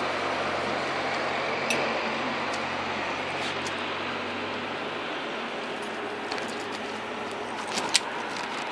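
Steady street noise with a small car's engine running low and slow as it manoeuvres to park; its hum fades about halfway through. A sharp click near the end.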